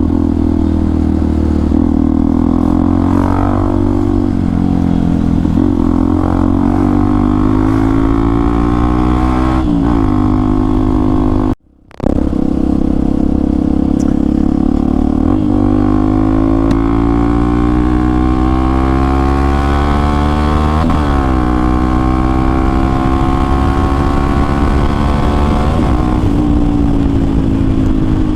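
Hero XPulse 200 4V single-cylinder engine through an aftermarket Akrapovic exhaust, ridden on the road. The revs climb and fall again several times as it accelerates and shifts gear. The sound drops out briefly about twelve seconds in.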